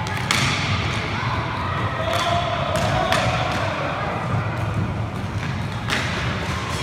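Inline roller hockey play: sharp clacks of sticks and puck, three loud ones about two to three seconds apart, with players calling out over the rink noise.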